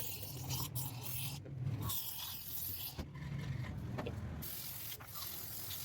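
Repeated hissing bursts of spray, each about a second long with short gaps between, over a low steady hum.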